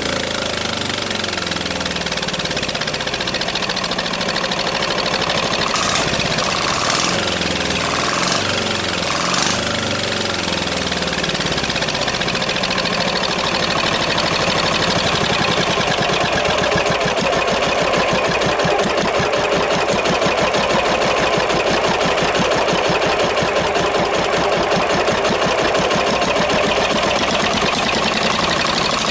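Single-cylinder air-cooled 10 hp diesel, a Yanmar L100 clone, running loud and straight-piped with no muffler. Its speed shifts up and down over the first dozen seconds, then it holds a steadier, faster run from about halfway.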